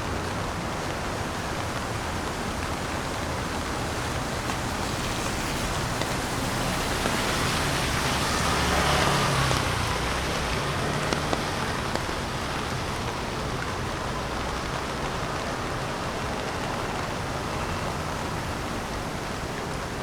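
Steady rain falling on the street. About halfway through, a vehicle passes, swelling up and fading away over the rain.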